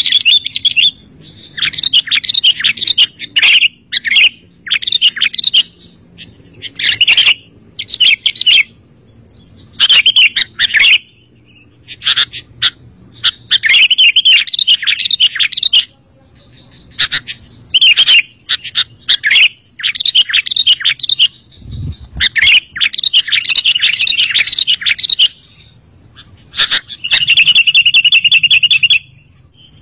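Sooty-headed bulbul (kutilang) singing: a run of short, loud chirping phrases with brief pauses between them, and near the end a fast, even trill.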